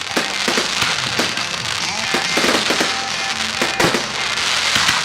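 Fireworks going off in a rapid series of bangs with dense crackling, over music playing at the same time.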